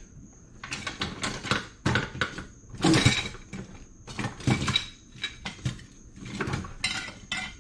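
Rummaging through loose metal hardware: bolts and parts clinking and clattering in irregular bursts, some with a short metallic ring.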